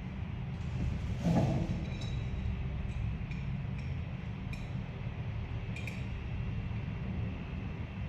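Small hard parts clinking and tapping against each other as they are handled, several sharp ringing clicks spread over a few seconds, with a brief rustle about a second in, over a steady low rumble.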